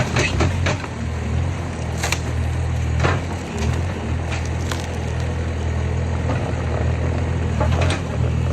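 A skid steer's engine running steadily while its grapple attachment crushes a junk sofa, the sofa's wooden frame cracking and splintering in sharp snaps several times.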